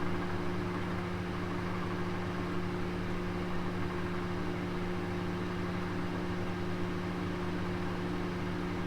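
Oven running with a roast cooking inside: a steady hum of a few low tones over an even hiss.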